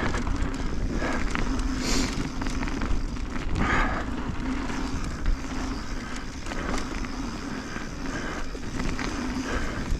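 Mountain bike rolling over a dirt trail's rollers: a steady rumble of tyres and wind on the microphone, with a steady hum and scattered small rattles and clicks from the bike.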